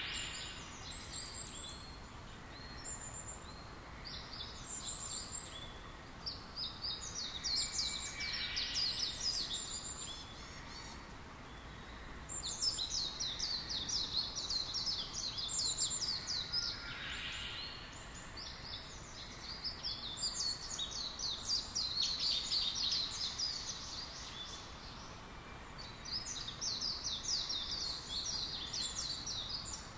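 Small birds singing: long runs of rapid, high chirps lasting a few seconds each, with short pauses between.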